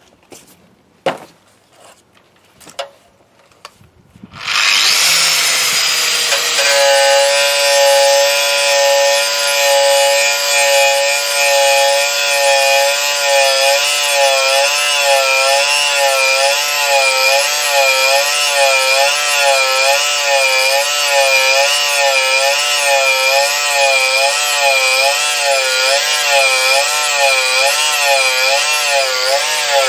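A few knocks, then about four seconds in a power tool starts and runs steadily under load. Its pitch wavers up and down in a slow, regular rhythm as it is worked back and forth.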